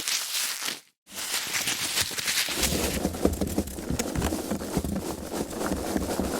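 Foam packaging being handled: a dense run of small crackles and rubbing, broken by a short gap about a second in, with a deeper rubbing sound joining after about two and a half seconds.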